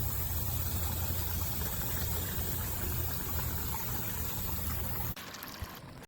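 Water trickling and splashing down the tiers of a four-tier solar cascade garden fountain, over a steady low rumble. About five seconds in the rumble drops away and only a thinner sound is left.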